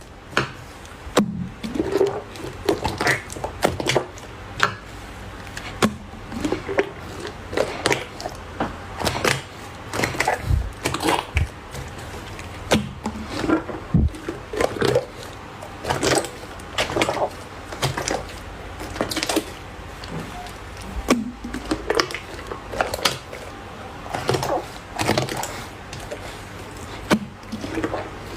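Slime being squeezed and poked by hand: a fast, irregular run of sticky clicks, pops and squelches.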